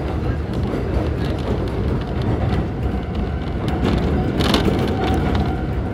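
Konan Railway Owani Line electric train running between stations, heard from inside the car: a steady rumble of wheels on the track. There is a short clatter about four and a half seconds in.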